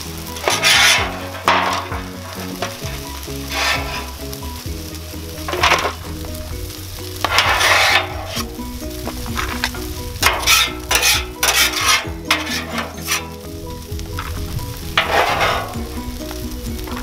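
Metal spatulas scraping across a Blackstone flat-top griddle in short strokes, bunched densely about two-thirds of the way through, as fried rice is scooped off, with the food sizzling on the hot steel. Background music plays underneath.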